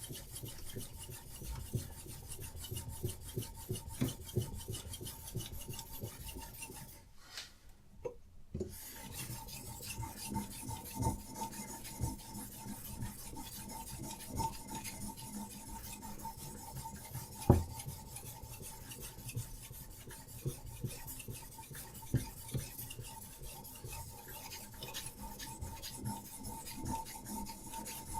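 Diamond sharpening stone on a Hapstone RS guided sharpener stroked back and forth along a knife's edge: continuous quick rasping scrapes of abrasive on steel. They pause briefly about seven seconds in, and there is one sharp click partway through.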